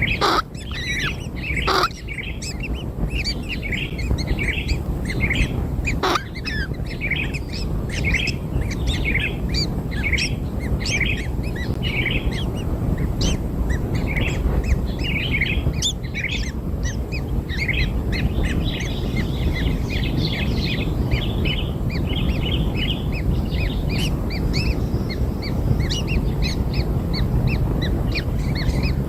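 Kingfisher nestlings chirping continuously in rapid, high, short calls, the begging calls of chicks being fed, over a steady low background noise, with a few brief clicks in the first few seconds.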